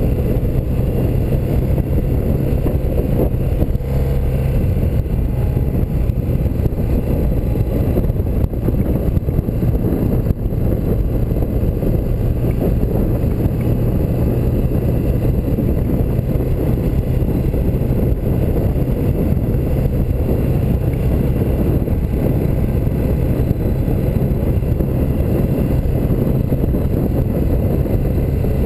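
1984 BMW R100RS's air-cooled flat-twin engine running at an even, unchanging speed under way, over a constant rush of noise.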